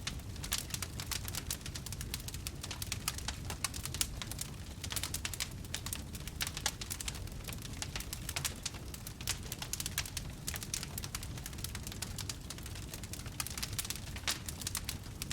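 Wood fire crackling: dense, irregular snaps and pops over a steady low rumble of the burning fire.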